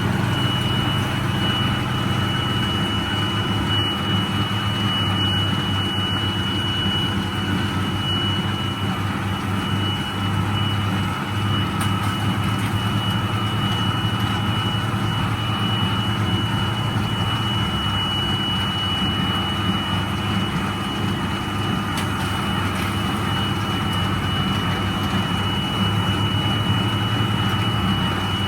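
1977 International Harvester 886 tractor's six-cylinder diesel engine running steadily under load while pulling a John Deere 348 square baler. A thin, steady high-pitched whine sits over the engine.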